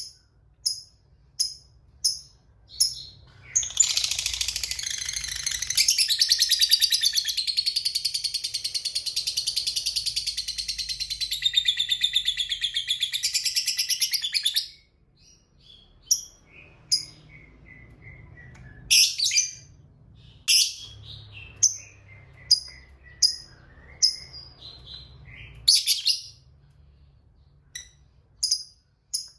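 Lovebird giving a long, rapid chattering trill (the 'ngekek panjang') lasting about eleven seconds, set between runs of short, high chirps about two a second; after the trill come scattered chirps, a falling run of notes and a few louder single calls.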